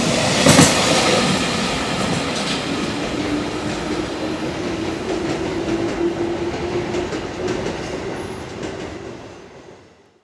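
Freight train wagons running over rail joints. There is a clack about half a second in, then a steady rumble with a faint held tone in the middle. The sound fades away as the train recedes.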